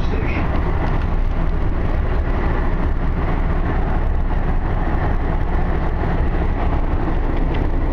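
Steady rumble and rolling noise inside a moving light-rail train car.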